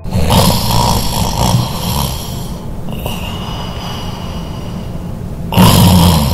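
Loud snoring, a rough rasping sound in long breaths that come about three times.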